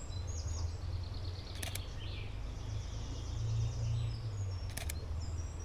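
Small songbirds singing in high, rapid trills over a steady low outdoor rumble, with two sharp double clicks of a Canon 77D DSLR shutter firing, one about a second and a half in and one near the end.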